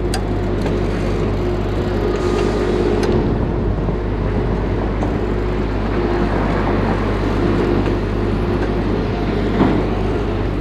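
Steady rumble of wind and road noise while riding a bicycle, with a faint wavering hum and a few light clicks.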